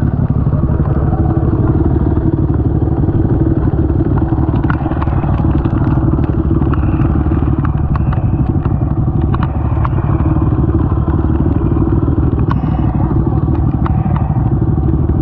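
Honda TRX450 ATV's single-cylinder four-stroke engine running steadily while riding, with scattered clicks and clatter on top.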